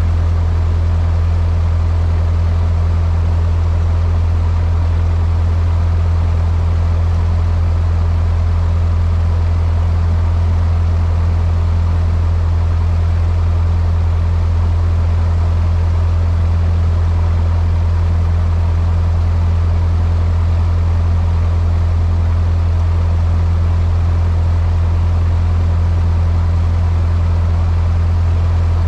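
Cessna 152's four-cylinder Lycoming O-235 engine and propeller droning steadily in the cockpit, a loud, even low hum that holds the same pitch throughout.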